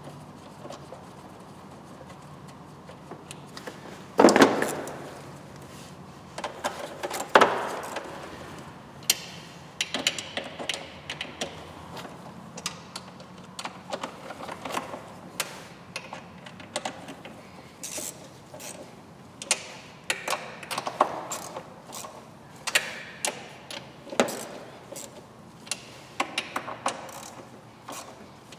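Irregular clicks, clacks and knocks of things being handled, with two louder sharp knocks about four and seven seconds in, over a faint steady low hum.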